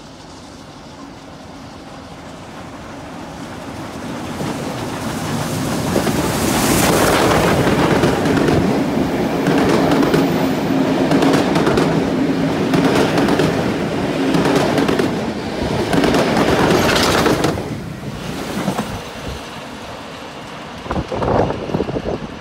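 A Tait 'red rattler' electric train and a K-class steam locomotive with its carriages approach side by side and pass close on either side at speed. The sound grows over about six seconds into a loud, dense rumble and clatter of wheels on rail with a steady hum, then drops away as the trains go by.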